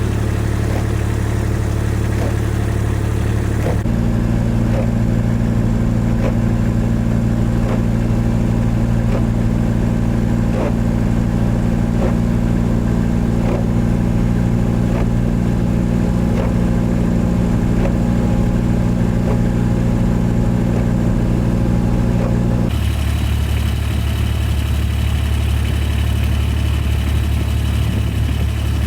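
Steady low hum of a vehicle engine running, with its pitch pattern changing abruptly about four seconds in and again near the end. Faint regular ticks sound through the middle stretch.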